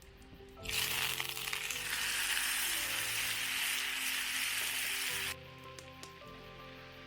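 Steak sizzling loudly as it sears, starting about a second in and cutting off abruptly about five seconds in, over soft background music.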